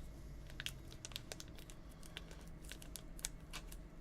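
Irregular light clicking and crinkling, several small clicks a second at uneven spacing, over a low steady hum.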